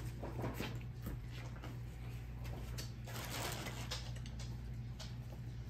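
Eating sounds: biting and chewing corn on the cob, a scatter of small irregular clicks and smacks over a steady low hum.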